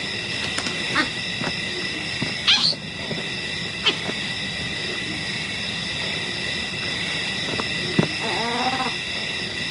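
Wild animals in the bush: a steady high-pitched drone with a few sharp clicks, and a short wavering animal call about eight and a half seconds in.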